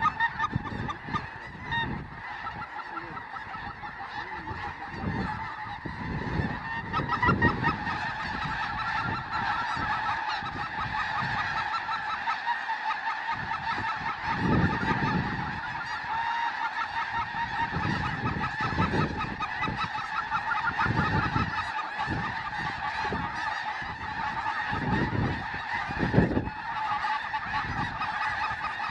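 A huge flock of snow geese calling overhead: a dense, constant din of overlapping honks.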